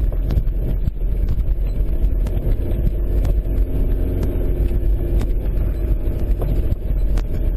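Vehicle driving on a rough dirt road: a steady, heavy low rumble of engine and road noise, with frequent short knocks and rattles as it goes over bumps.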